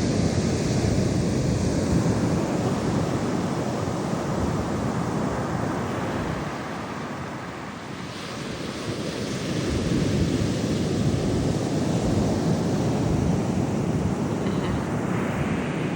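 Ocean surf breaking and washing in, rising and easing in slow swells, with wind buffeting the microphone.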